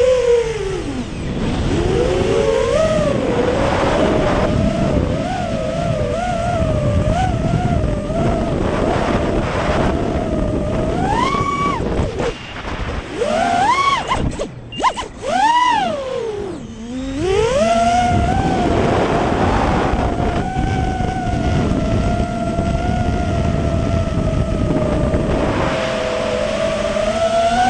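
Quadcopter's Emax 2205 2300kv brushless motors spinning DALProp Cyclone T5046C props, a whine that wavers up and down with the throttle. Around the middle several hard throttle punches send the pitch sweeping steeply up before it drops off briefly, then it holds a steady whine and climbs again near the end.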